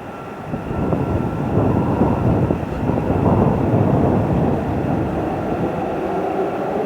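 Train rumbling past on the rails. The rumble builds over the first second or two, then runs steadily and loud.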